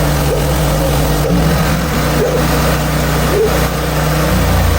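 Portable bandsaw sawmill's gas engine running steadily under load as the blade saws through a maple log; the engine note changes near the end.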